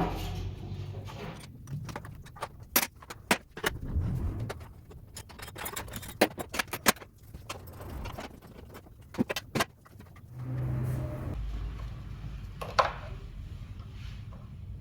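Metal tools and parts clinking and clattering: a run of sharp metallic clicks and knocks, bunched in the first half and again near the end, over a low background hum.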